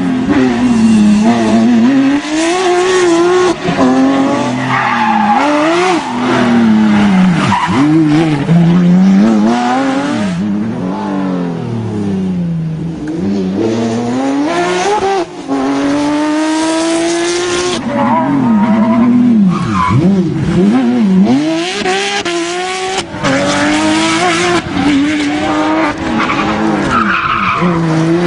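Porsche 911 GT3 rally car's naturally aspirated flat-six at full throttle, its pitch climbing and dropping again and again through gear changes and lifts for corners. Tyres skid as the car is drifted.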